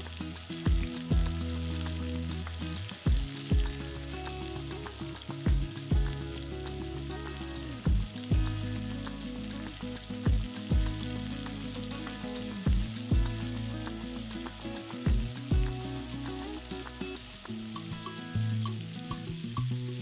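Food sizzling in hot oil in a frying pan, with occasional stirring. Background music with a steady beat plays over it.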